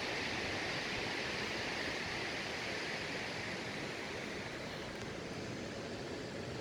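Waterfall rushing: a steady, even roar of falling water, easing off slightly over the last few seconds.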